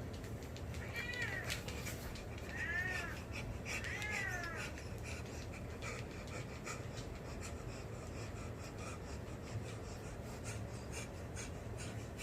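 A small, elderly dog whining three times in high, arching cries within the first few seconds, from excitement. Light scattered clicks follow.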